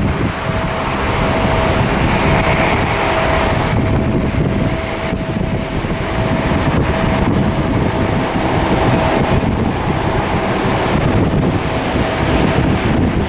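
Wind buffeting the microphone over the steady hum and whine of a jet airliner's engines.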